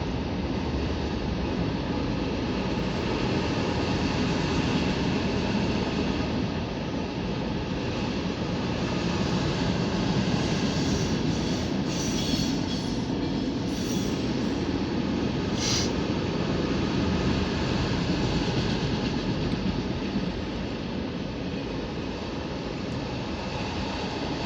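Norfolk Southern manifest freight cars rolling past at track side: a steady rumble and clatter of steel wheels on rail, with a few brief high wheel squeals about halfway through.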